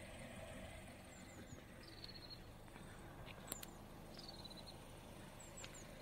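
Faint calls of small songbirds over a quiet outdoor background: a few short high chirps, and two brief twittering runs of notes about two and four seconds in. A sharp double click just after three and a half seconds.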